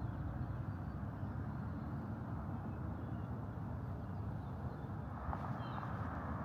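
Steady low outdoor rumble, with a few faint, short bird chirps now and then.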